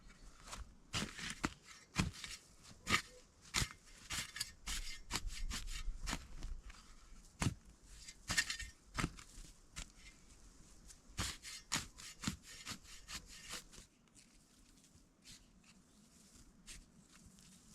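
Wood being handled: irregular cracks, snaps and scraping rustles, dense for most of the stretch and dying down to a few faint clicks for the last few seconds.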